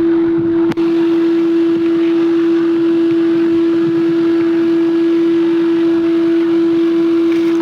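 A loud, steady machine hum holding one constant pitch over a hiss, with a brief click and dropout under a second in.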